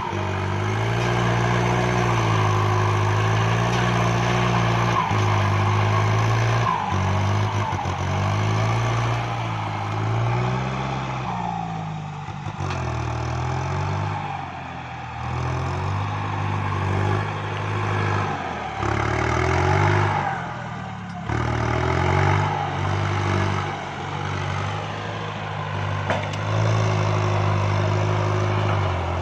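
Kubota MU5702 tractor's diesel engine working hard while pushing soil, its engine speed rising and falling over and over as the load and throttle change.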